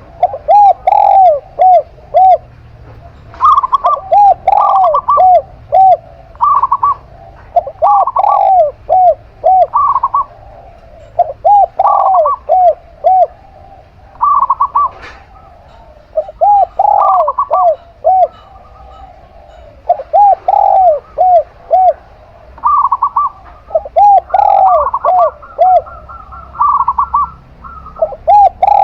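Zebra dove and spotted dove cooing together. Both repeat short phrases of quick, rounded notes, one bird lower and one higher, overlapping, with brief pauses between phrases.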